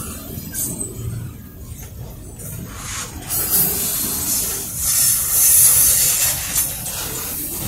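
Double-stack container freight train rolling past: a steady rushing hiss of steel wheels on rail over a low rumble, swelling louder about five seconds in.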